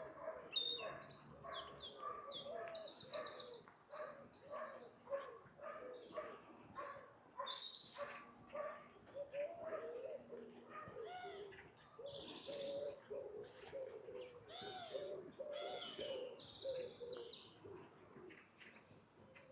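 Wild birds calling and singing, a steady run of short chirps and calls that overlap and go on without a break.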